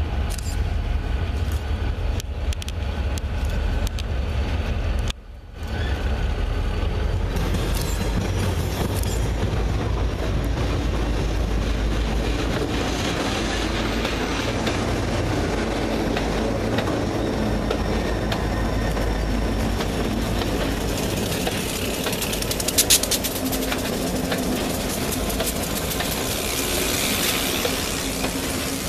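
Four EMD road-switcher diesel locomotives, two GP35s and two GP38-2s with 16-cylinder two-stroke engines, pass close by under power with a steady low engine rumble. Later the rumble gives way to the rolling clatter of covered hopper cars on the rails, with a short burst of sharp clanks a little over twenty seconds in. The sound drops out briefly about five seconds in.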